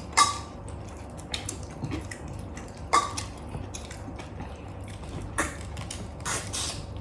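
Close-up eating sounds: chewing, with a few sharp clicks of a spoon and fork against a plate and a short hissy burst near the end.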